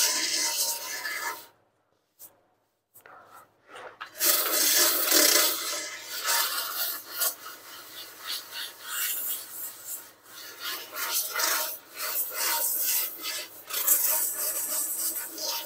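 Coarse 36-grit sandpaper rasping back and forth over hardened short-strand fiberglass body filler, knocking down its high spots. The strokes stop for about two seconds early on, then start again and run on unevenly.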